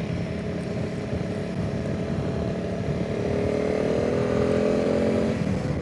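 Honda CRF300 Rally's single-cylinder four-stroke engine pulling along under way, with wind noise on the microphone. Its pitch rises gradually from about halfway in as the bike speeds up, then the engine eases off near the end.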